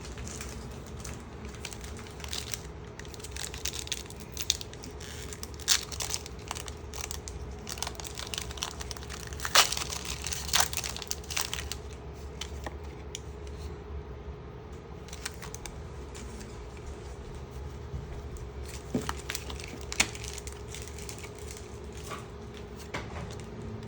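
Foil booster-pack wrapper crinkling and being torn open, with many short crackles and clicks as the trading cards inside are handled. A steady low hum runs underneath.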